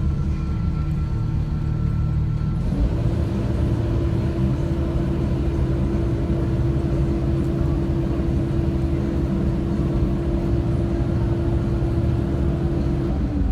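Loader running steadily as it carries dirt. About three seconds in a steady higher whine joins the low hum and holds, then drops away just before the end.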